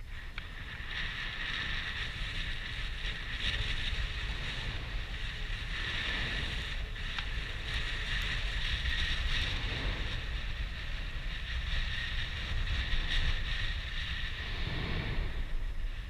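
Mount Yasur's crater giving off a steady wind-like rushing roar over a deep rumble, which the uploader puts down to the heat of the volcano; it swells and eases a little, with a broader whoosh near the end.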